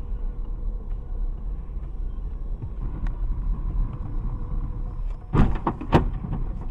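Car on the move with a steady low rumble of road and engine noise, then two loud bangs about half a second apart near the end, the sound of a collision.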